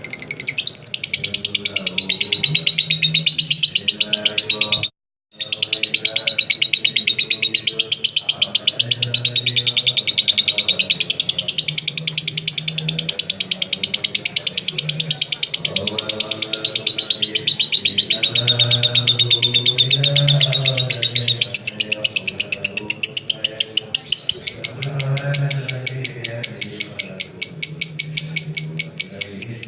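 Lovebird singing its long, unbroken ngekek chatter: a very fast run of high, scratchy notes, broken once by a short gap about five seconds in.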